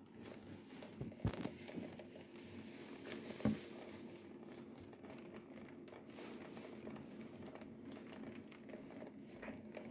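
Heavy rain heard faintly through a closed window as a steady hiss, over a faint steady hum, with two soft knocks in the first few seconds.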